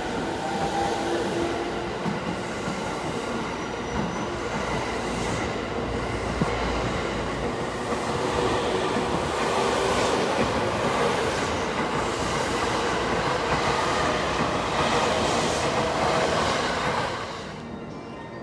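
E217-series electric commuter train moving slowly along the platform, its running gear and wheels on the rails making a steady noise that grows louder about eight seconds in. The noise drops away suddenly near the end.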